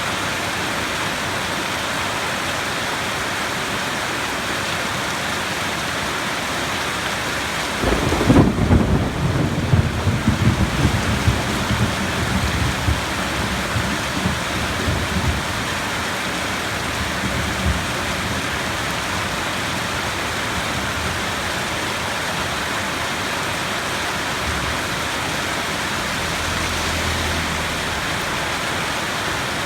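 Steady heavy rain hissing throughout, with a clap of thunder about a quarter of the way in that rumbles low and rolls away over the next ten seconds or so.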